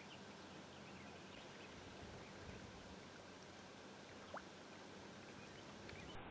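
Near silence: faint steady hiss of outdoor ambience with a few faint ticks and one brief sharper blip about four seconds in.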